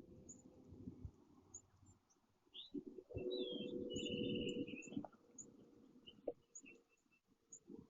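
Small birds chirping in short, high notes, with a quick trill about three seconds in. A louder low sound lasting about two seconds sits under the trill.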